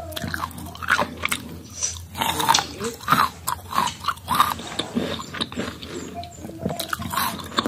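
A person biting and chewing firm green mango slices: a run of irregular crunches and wet mouth sounds.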